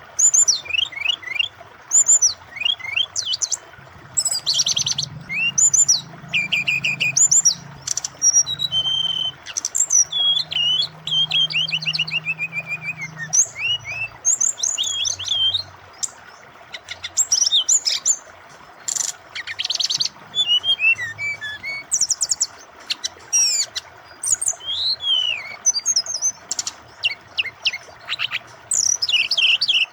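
A caged SRDC (brown-chested jungle flycatcher) singing continuously: quick varied chirps, short trills and sliding whistles with barely a pause, over a steady rush of flowing water.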